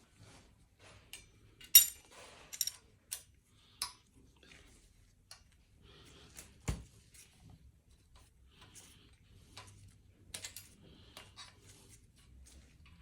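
Scattered metallic clinks and taps of tools and engine parts being handled during engine assembly, the loudest a ringing clink about two seconds in.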